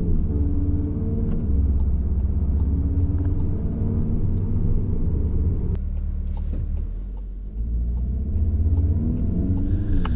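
Inside the cabin of a 2015 Volkswagen Golf R Mk VII, its turbocharged 2.0-litre four-cylinder on a stage 1 engine and transmission tune, accelerating and shifting up through the gears, the engine note rising and dropping back at each change. A little past halfway it eases off near idle, then pulls away again from a standstill and climbs through the gears once more.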